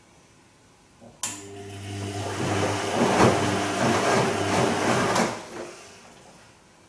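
Bosch Serie 2 Vario Perfect washing machine with a short burst of water moving through it: a low electric hum under rushing water. It starts abruptly with a click about a second in, runs for about four seconds, and stops sharply before fading out.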